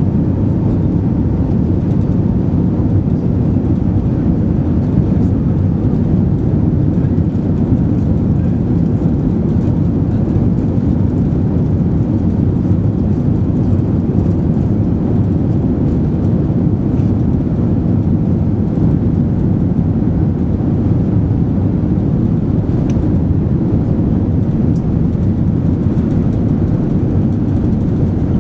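Steady low rumble of an Airbus A380 heard from inside the passenger cabin: engine and airflow noise, even and unchanging.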